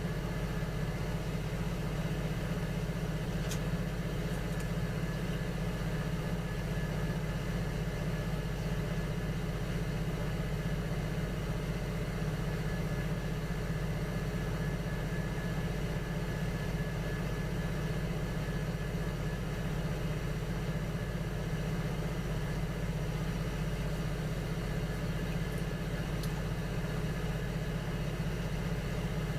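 Electric potter's wheel motor running with a steady, even hum, with two faint ticks, one about three and a half seconds in and one near the end.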